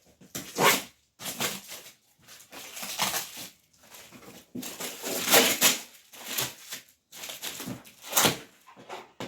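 Irregular rustling and crackling of cardboard and plastic packaging being handled as a carton is opened, in a string of short noisy bursts.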